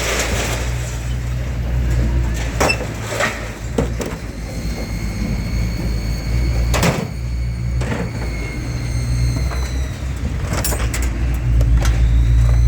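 Vehicle on the move, heard from inside: a steady low engine and road rumble with scattered knocks and rattles, and a faint steady high whine from about four seconds in.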